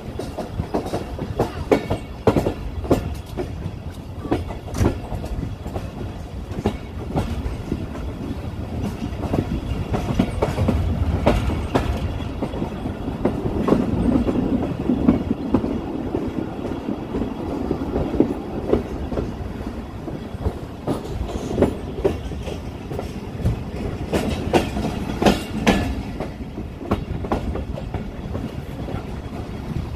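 Awam Express passenger coach running along the track, heard from its open doorway. There is a steady low rumble, and the wheels clatter over rail joints in many sharp, uneven clicks. The rumble swells for a few seconds about halfway through.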